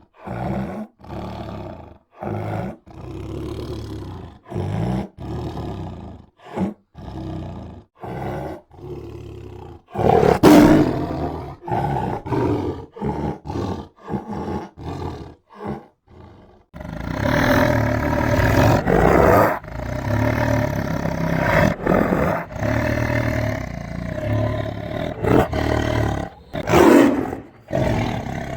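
Tiger roaring: a run of short separate roars about one a second, a louder one about ten seconds in, then from about seventeen seconds a continuous, unbroken run of roaring.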